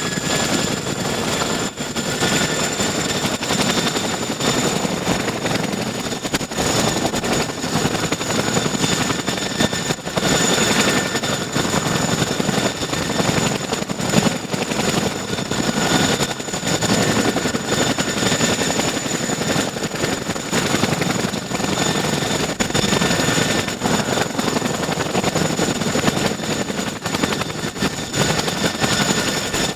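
Boeing CH-47 Chinook helicopter's twin turboshaft engines running, a steady high turbine whine over a rapid, even pulsing from the turning rotors.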